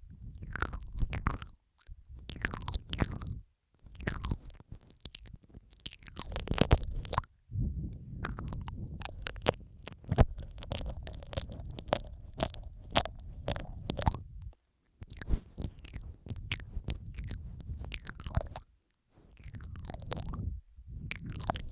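ASMR mouth sounds recorded close to the microphone: wet clicks, smacks and licking noises, layered, coming in clusters of a second or two with brief silent gaps between them.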